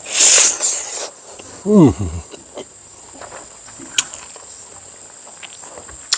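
A steady high insect drone runs throughout. A loud noisy burst comes in the first second, a short falling-pitch sound about two seconds in, and single clicks at about four and six seconds.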